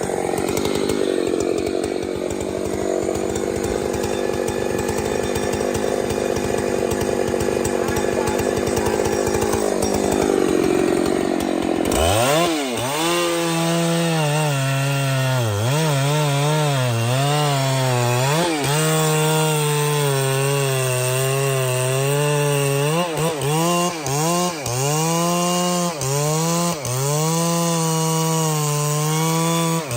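Chainsaw cutting into a tree trunk under load, its engine note low and heavy. About twelve seconds in the sound changes abruptly to a clearer, higher engine note that rises and falls over and over as the throttle is worked, with brief dips.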